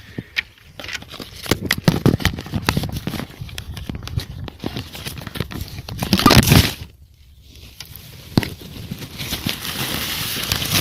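Irregular squelching, crackling and scuffing from footsteps and handling in mud while a motorcycle is hauled out of a muddy ditch by hand, with a louder rush about six seconds in.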